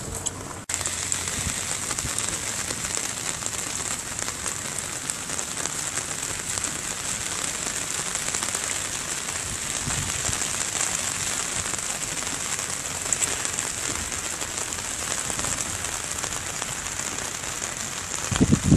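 Steady rain falling, an even hiss that starts abruptly about a second in. A few low bumps on the microphone near the end.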